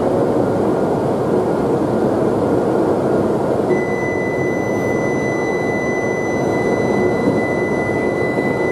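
Steady running noise of an E7/W7-series Shinkansen train standing at a station platform. About four seconds in, a continuous high-pitched beep starts and holds steady.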